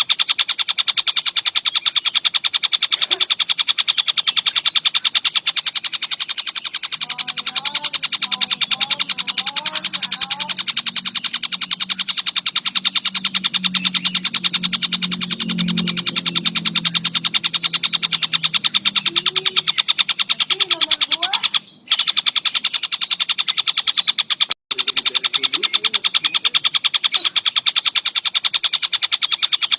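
Tengkek buto kingfisher calling in a rapid, unbroken string of high calls, many to the second. It breaks off twice for an instant about two-thirds of the way through. A low hum sits under the calls for a stretch in the middle.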